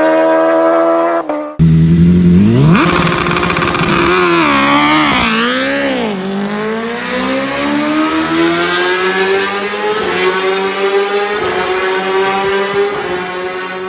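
Sport motorcycle engine running at high revs. It cuts off abruptly about a second and a half in, then the revs climb fast, dip and recover twice, and rise slowly and steadily through the rest.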